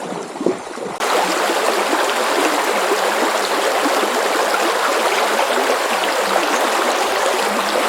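Steady rushing of flowing water, starting abruptly about a second in and holding an even level.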